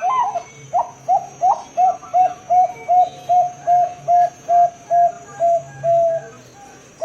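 Zebra dove (perkutut, Bangkok line) calling: a run of about fifteen short, clipped coo notes at an even pace of about two and a half a second. The first few notes slide higher before the run settles on one pitch, and a longer held coo starts right at the end.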